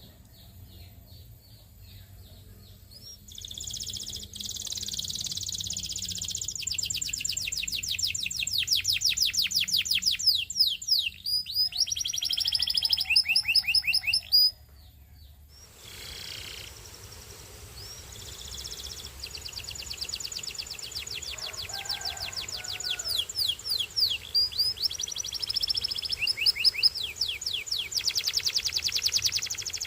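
Belgian singing canary singing long phrases of rapid, evenly repeated high trill notes. The song stops abruptly about halfway through and picks up again a second or so later.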